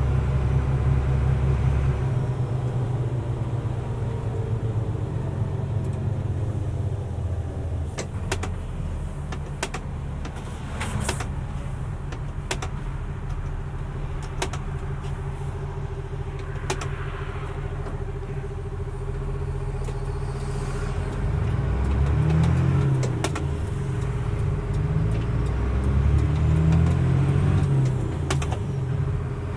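Mercedes-Benz Unimog U500's turbo diesel engine running while the truck drives, heard from inside the cab. Its low note drops about two seconds in and rises and falls in the last several seconds, with several sharp clicks scattered through the middle.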